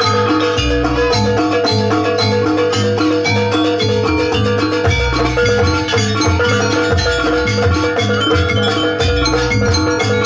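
Javanese gamelan music: metal mallet-struck keys play a dense melody over a repeating drum pattern, with a steady held tone underneath.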